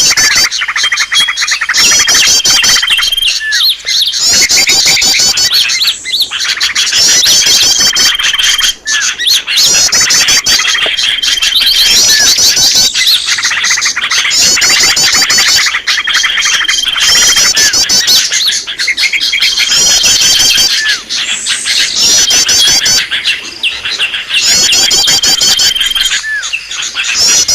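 Small-bird lure call (pikat): a loud, dense twittering of high chirps and fast trills, with a short steady whistle that comes back every four to five seconds in a repeating pattern.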